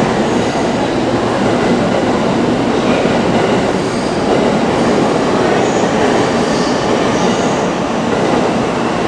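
Steady rumbling railway noise in a large train station, with faint brief high squeaks now and then.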